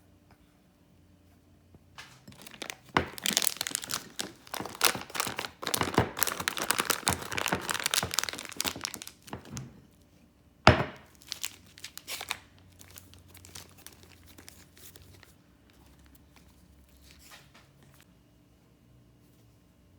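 Crinkling and rustling of a plastic bag or wrapping being handled for several seconds, then a sharp knock, followed by lighter handling sounds.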